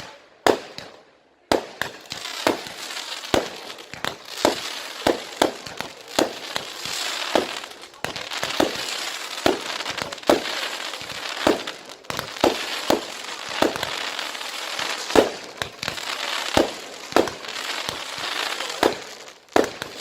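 Fireworks going off in a continuous barrage: a rapid run of sharp bangs, between one and two a second, over a steady crackling hiss that starts about a second and a half in.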